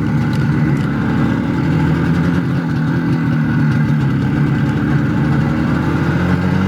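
IZh Jupiter-4 two-stroke twin motorcycle engine running steadily under way, both cylinders firing evenly on a freshly adjusted carburettor. The engine note rises slightly near the end.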